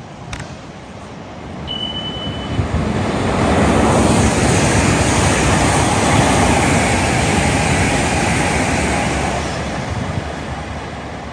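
A train passing through the station: its noise builds over about two seconds, holds, then fades near the end. A brief high tone sounds about two seconds in.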